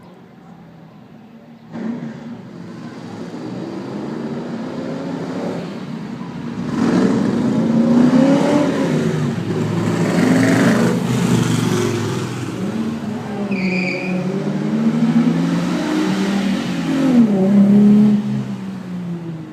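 Engines of old racing cars revving, their pitch rising and falling again and again as they are blipped and pull away. The sound steps up about two seconds in and is loudest through the middle and near the end. A brief high tone sounds about two-thirds through.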